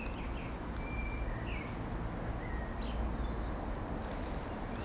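Small birds chirping in short, scattered calls over a low, steady outdoor rumble.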